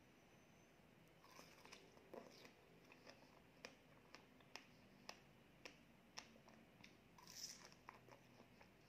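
Close-miked mouth sounds of chewing soft food: quiet, wet smacking clicks about twice a second, with a short breathy hiss near the end.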